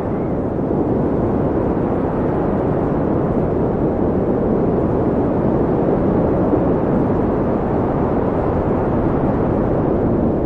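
Steady wind blowing, a deep, even rush with little high hiss and no gusts or breaks.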